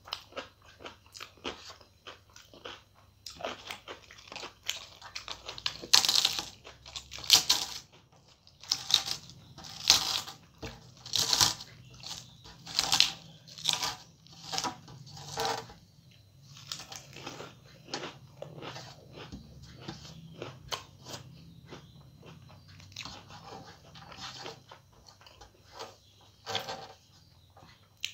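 Close-up eating sounds: chewing and crunching of food, in irregular bites and mouthfuls. They are loudest through the middle stretch.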